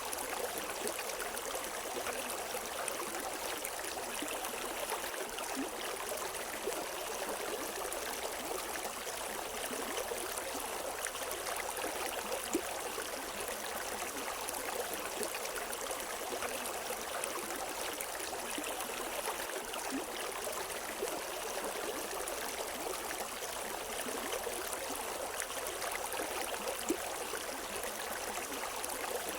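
River water flowing over rocks: a steady rushing with fine splashing and gurgling.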